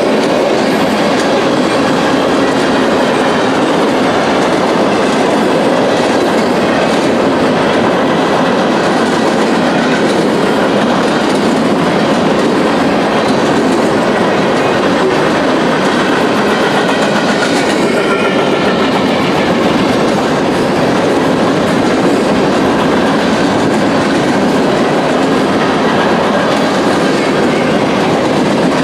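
Freight train cars rolling past steadily, their wheels clattering over the rail joints.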